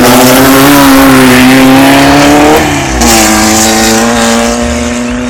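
Volkswagen race car engine running loud at high revs. Its pitch climbs slightly, dips about two and a half seconds in, then holds steady a little lower.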